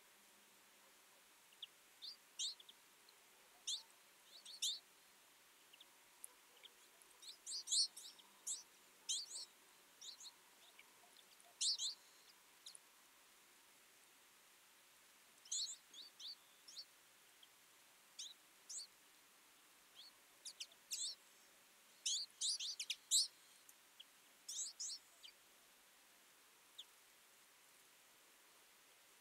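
A flock of twite giving short, high chirping calls, coming in scattered clusters with quieter gaps of a second or two between them.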